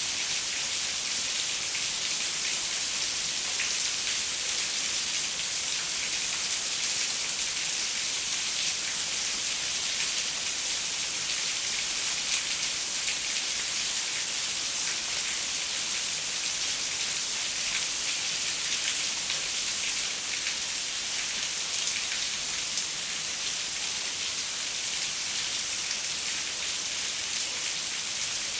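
Steady rain pattering on a window pane, a constant hiss of many fine drop ticks.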